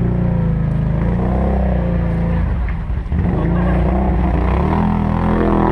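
ATV engine running under throttle. It eases off briefly about halfway through, then picks up again.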